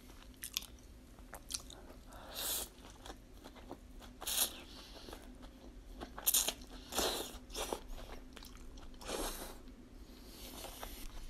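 Close-miked eating sounds: wet chewing and crunching of salmon sashimi wrapped in a leaf with shredded daikon radish, coming in several short bursts with small clicks between them.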